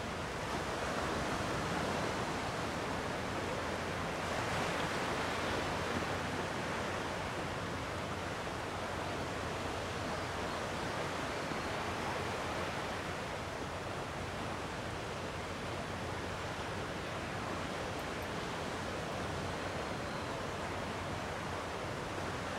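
Gentle sea waves washing against the shore, a steady wash that swells slightly a couple of times in the first few seconds.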